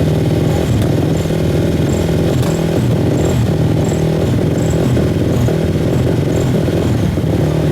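Enduro motorcycle engine running steadily at a fairly constant pitch.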